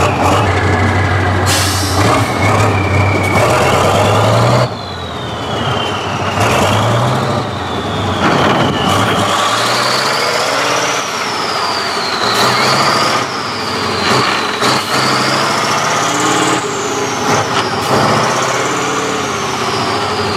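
Tractor engine revving under load, its pitch climbing and falling back over and over every few seconds, with a high whine rising and falling along with it.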